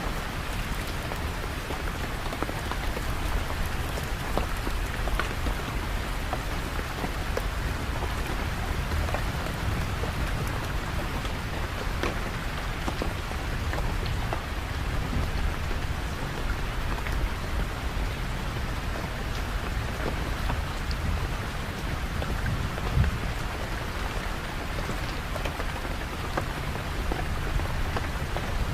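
Steady heavy rainfall, with many separate drops ticking and pattering close by over an even hiss, and a low steady rumble underneath.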